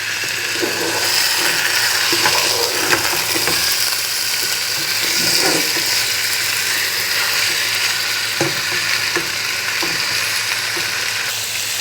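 Chicken pieces sizzling steadily in hot coconut oil in a pan as they are turned over, with a few short scrapes and knocks of the spatula against the pan.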